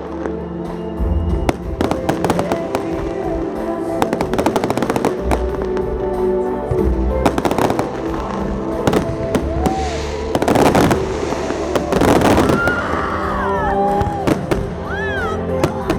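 Holiday fireworks salute bursting repeatedly in rapid, irregular bangs, over loud festive music.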